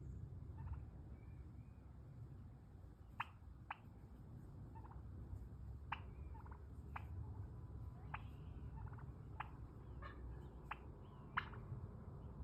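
Turkey cluck-and-purr calling: about eight sharp single clucks, roughly one every second or so, with soft rolling purr notes between them, over a low rumble.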